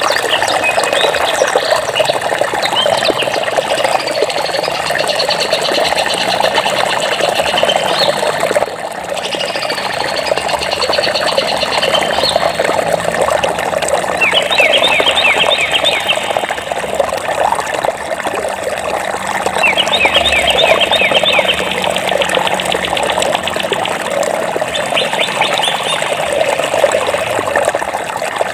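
Stream water running steadily, with birds singing over it: trills early on and short bursts of quick repeated high notes about 15, 20 and 25 seconds in.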